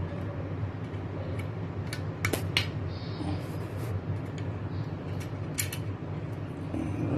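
A few sharp clicks and light scraping from hands working loose the carbon brushes of a washing machine motor, over a steady low hum.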